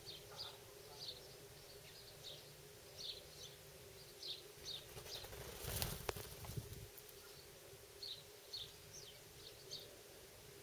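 Short, high bird chirps, repeated irregularly in ones and twos through the garden, over a faint steady hum. A little past the middle comes a louder rustling noise with one sharp click.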